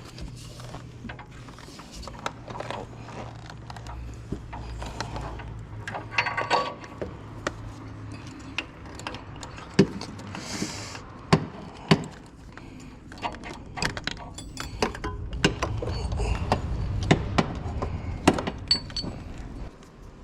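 Hand tools and metal parts being handled: scattered clicks and clanks, a few sharp, over a low hum that fades about eight seconds in and a low rumble near the end.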